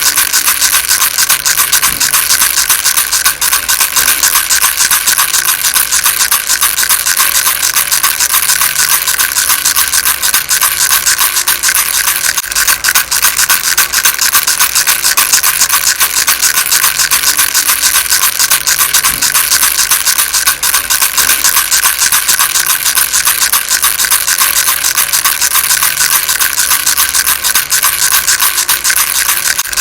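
Baby rattle shaken continuously and fast: a dense, unbroken stream of small bright rattling clicks.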